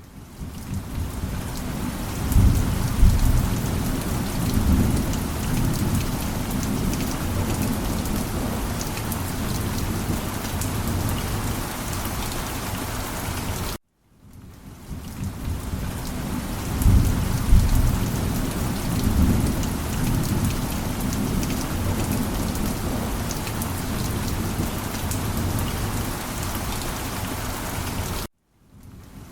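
Heavy rain falling steadily, with a low rolling thunder rumble a couple of seconds in. The sound cuts out abruptly about halfway through, then the same rain and thunder start over.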